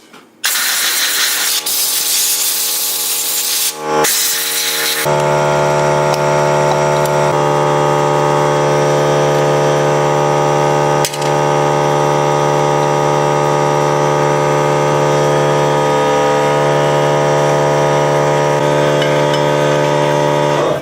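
Electric motor running with a steady electrical hum. The first few seconds carry a loud hissing rush before the hum settles in on its own.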